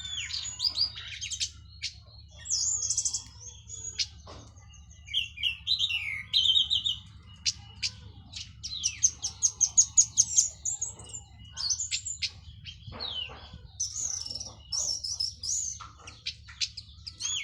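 Orange-headed thrush (anis merah), just out of its moult, singing in full voice: a long, varied song of whistled phrases, chirps and trills, with a fast run of repeated notes about nine seconds in. A steady low hum runs underneath.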